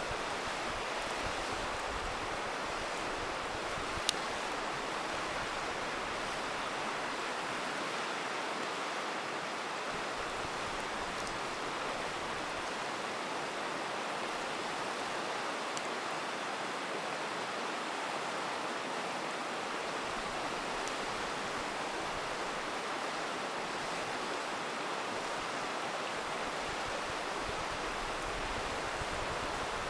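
Steady rushing of a river, with a few sharp pops from a crackling wood campfire; the loudest pop comes about four seconds in.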